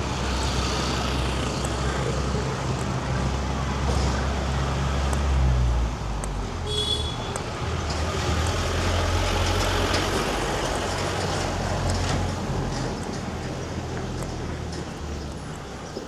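Street traffic: motor vehicle engines running close by, over a general roadway hum. A heavy engine's low rumble drops back about six seconds in, and there is a brief high squeal about seven seconds in.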